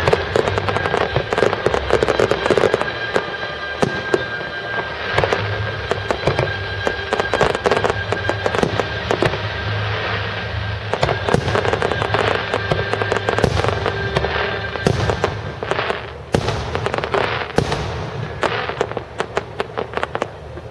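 Fireworks display: shells bursting in a rapid, continuous barrage with crackle, the bangs thinning to separate reports in the last few seconds, with music playing underneath.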